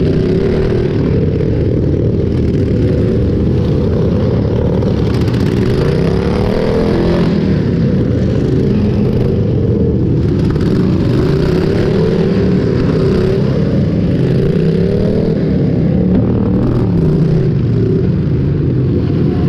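Several small lawn-tractor engines run hard together, their pitch swinging up and down and overlapping as they rev and ease off, over a steady loud rumble.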